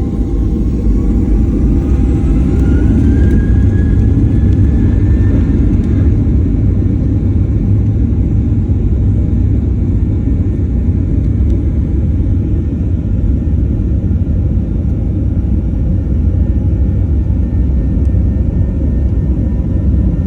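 Boeing airliner's jet engines during the takeoff run: a loud, steady rumble, with an engine whine that rises in pitch over the first few seconds and then holds as the engines reach takeoff power.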